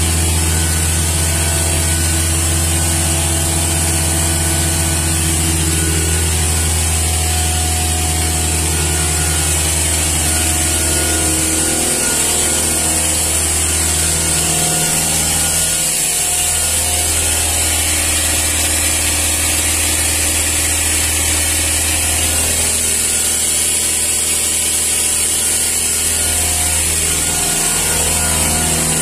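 Ford Transit diesel engine running steadily during an on-vehicle diesel particulate filter cleaning, with a steady high hiss over it. The engine's note dips briefly a few times.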